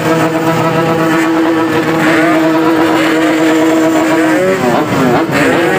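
Two-stroke motorcycle engines being revved in a crowd. One engine is held at a steady high rev while others run underneath it. Near the end the revs drop and climb again as several engines rise and fall in pitch together.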